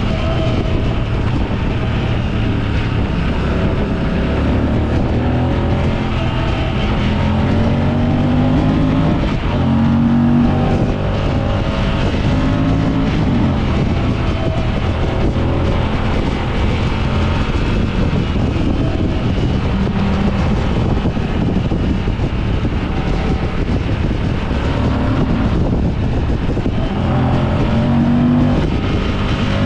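Motorcycle engine running under way, its revs climbing several times and dropping back as it accelerates through the gears, over steady road and wind noise.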